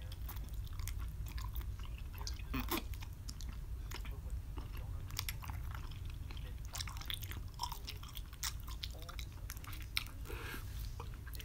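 A person chewing a mouthful of instant ramen noodles, with many scattered wet mouth clicks, over a steady low hum.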